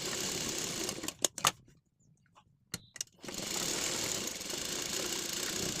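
Sewing machine stitching in two runs, broken about a second in by a couple of sharp clicks and a short pause with a few more clicks before it starts up again.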